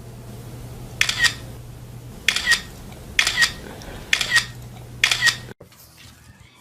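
A sharp double click, like a shutter, repeated five times at roughly one-second intervals over a low steady hum. It stops suddenly near the end.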